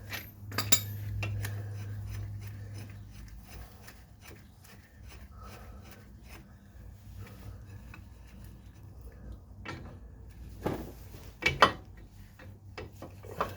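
Steel tools being handled: clinks and scrapes as a socket is fitted onto the end of a seized bolt and a press is set against it, with a few sharp metal clanks, the loudest about 11 to 12 seconds in.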